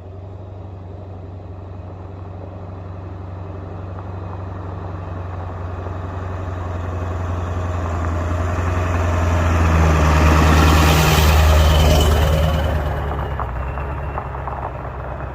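A motor vehicle's engine hum, growing steadily louder to a peak about two-thirds of the way through and then fading, as it passes by.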